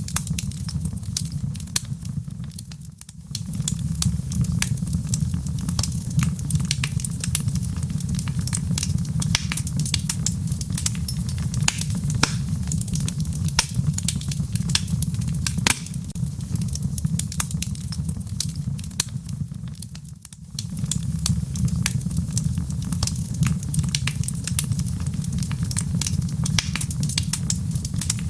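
Wood fire crackling: a steady low rumble of flames with frequent sharp pops and snaps. The low rumble drops away briefly twice, about three seconds in and again about twenty seconds in, while the crackles go on.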